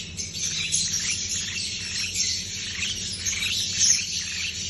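A flock of lovebirds chattering: many high chirps overlapping in a continuous, busy chorus.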